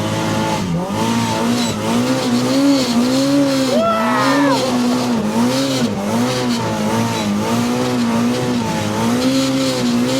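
Polaris RZR Pro R's turbocharged four-cylinder engine working through deep snow, its revs rising and falling in a steady rhythm about one and a half times a second. A brief higher whine glides up and down about four seconds in.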